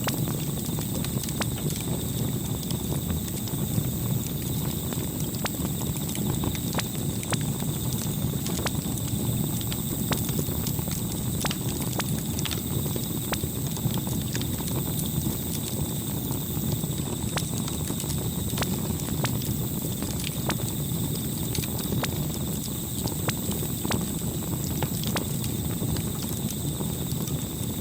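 Campfire burning: irregular wood crackles and pops over a steady low rush of flame.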